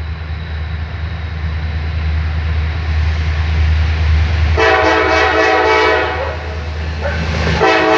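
Norfolk Southern freight train's diesel locomotives approaching with a steady low engine rumble that grows louder. The air horn sounds a chord for about a second and a half just past the middle, then a second blast starts near the end.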